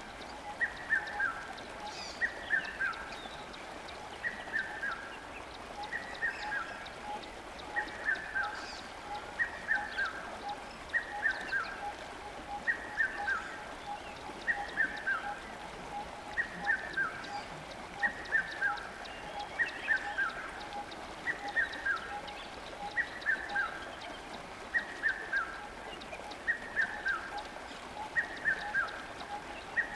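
A bird repeating a short call of three or four falling notes about every second and a half, very regularly, over the steady rush of a river.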